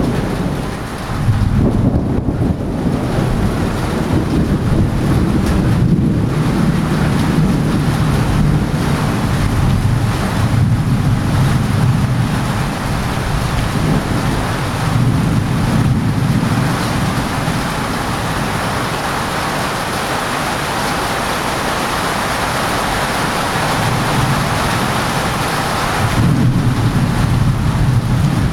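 Monsoon thunderstorm: steady rain and wind with a heavy low rumble throughout, turning suddenly louder about a second in.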